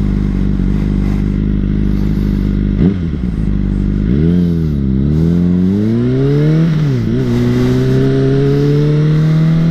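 Dirt bike engine idling steadily, then revved, its pitch dipping and rising twice before climbing steadily as the bike pulls away and accelerates.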